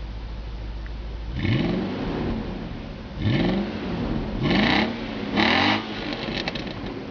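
Car engine idling, then revved in four short throttle blips, the pitch rising and falling back each time, the first about a second and a half in.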